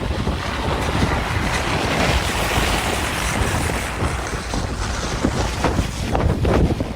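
Blizzard wind gusting hard and buffeting the microphone, a loud, uneven rushing with a deep rumble.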